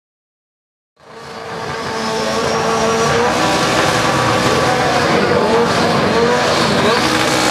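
Silence for about a second, then two drag-race cars' engines fade in, a turbocharged Honda Civic among them, running and wavering in pitch as they are held on the starting line before launch.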